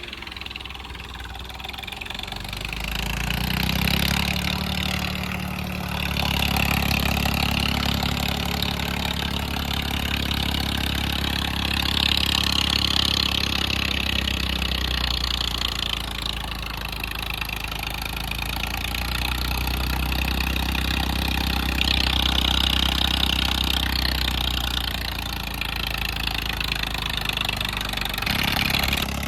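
Swaraj tractor's diesel engine working a thresher under load, running continuously with the machine's rattling hiss over it; the loudness swells and eases several times as the crop is fed in.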